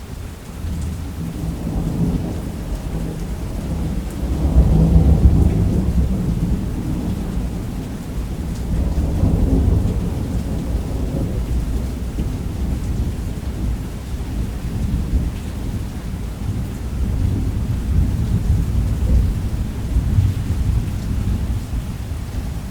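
Thunderstorm: steady heavy rain under long rolls of rumbling thunder. The thunder swells loudest about four to six seconds in and again around ten seconds, then keeps rumbling low.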